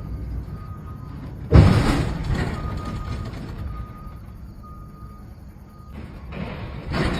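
A truck's reverse alarm beeping about once a second. About one and a half seconds in there is a loud, sudden thump that dies away over a second, and a louder clatter builds near the end.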